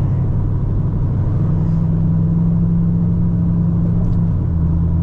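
Straight-piped 2010 Camaro SS 6.2-litre V8 running at cruise, a steady low exhaust drone heard from inside the car. The note shifts slightly about a second and a half in and again near the end.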